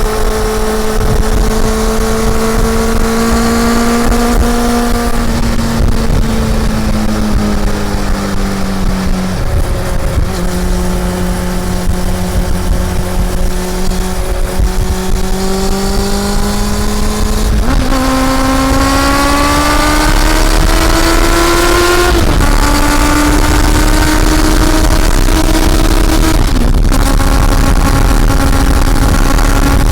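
Honda CB400 Super Four's inline-four engine pulling the bike along with a steady rushing noise underneath. The engine note holds steady, sags a little, then climbs from a little past halfway and drops abruptly twice near the end as it shifts up a gear.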